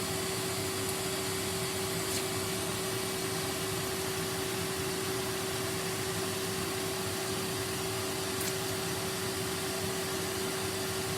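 Numatic Henry cylinder vacuum cleaner running steadily, an even rushing noise with a constant hum tone.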